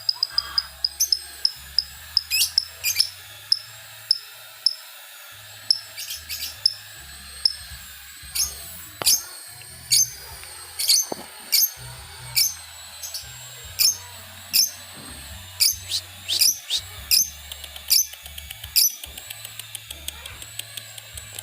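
Lovebird calling in short, sharp, high-pitched chirps, some in quick runs of ticks: a young bird practising the rapid 'ngetik' ticking song. A low hum runs underneath.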